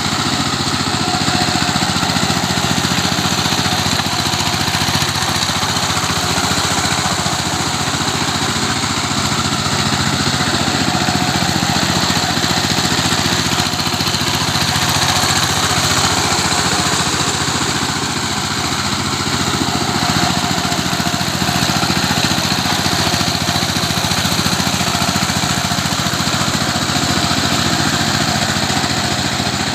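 Tractor engine running steadily as the tractor churns a field into mud.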